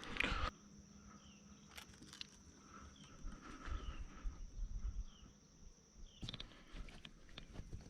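Insects buzzing in a steady, faint, high-pitched drone, cutting off about six seconds in. A few faint clicks follow.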